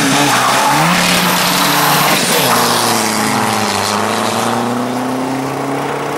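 Modified hatchback cars accelerating hard from a standing start in a drag race. The engine note climbs, drops at each gear change and climbs again, several times over.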